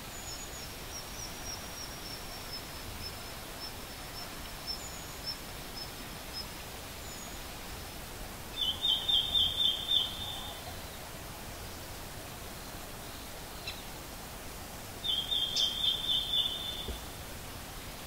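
Red-billed leiothrix calling: two short rattling series of about seven quick repeated notes, the second some six seconds after the first, over a steady background hiss.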